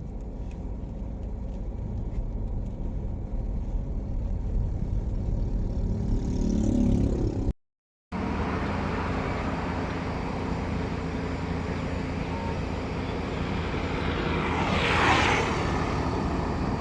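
Heavy truck engine running with a steady low rumble, then road traffic noise after a sudden cut a little past halfway, with a passing sound falling in pitch near the end.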